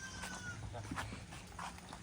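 Livestock in a goat shed: a thin, high, slightly falling call of under a second near the start, scattered short clicks, and a low steady rumble underneath.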